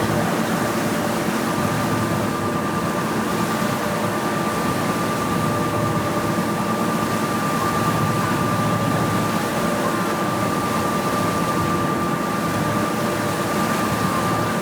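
Steady vehicle or machine drone with a constant high whine that becomes clear about a second and a half in.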